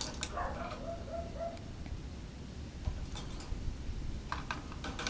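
Sharp clicks and taps of a wire cage being picked at by a Goffin's cockatoo trying to get it open, coming in small clusters about three and four and a half seconds in. A faint bird call sounds near the start.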